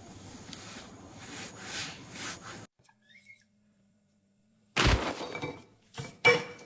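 A fading hiss, then quiet. About five seconds in there is a sudden loud crash, followed near the end by two shorter sharp knocks.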